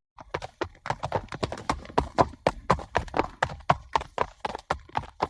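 Horse hooves clip-clopping on a hard surface in a quick, steady run of hoofbeats, about five a second.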